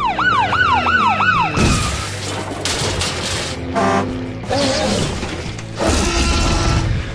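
Cartoon sound effects: a siren-like tone warbling rapidly up and down for about a second and a half, then a series of loud, noisy crashes and rumbles.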